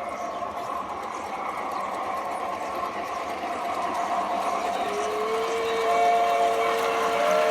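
G-scale model steam locomotives' sound units and running gear, growing louder as the trains approach; about five seconds in, a multi-tone steam whistle from a locomotive sound unit begins to blow.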